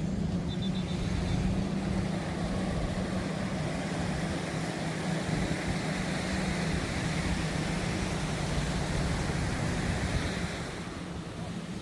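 A steady motor engine drone over a wash of surf and wind noise, easing off a little near the end.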